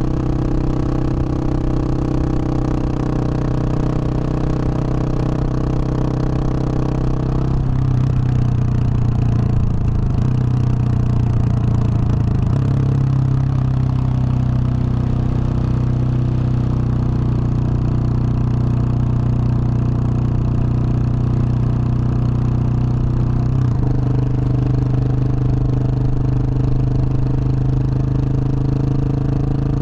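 Husqvarna 701 supermoto's big single-cylinder engine, through a Wings aftermarket exhaust, running steadily under way. Its note changes about a quarter of the way through and again near the end.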